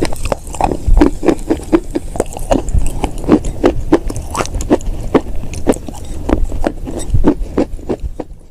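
Chalk and clay crunching in a rapid series of crisp crunches, about two to three a second, fading out at the very end.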